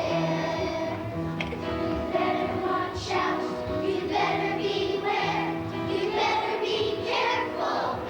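A choir of children singing a song over instrumental accompaniment.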